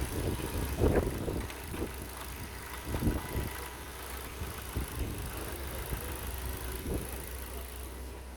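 Ford Focus 2 1.6-litre four-cylinder petrol engine (HWDA) idling steadily, run as a test of a used engine, with a few brief louder knocks over the hum.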